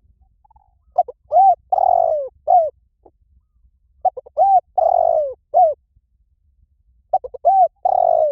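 Spotted dove cooing: three repeated calls about three seconds apart, each a short run of coo notes with one longer drawn-out middle note.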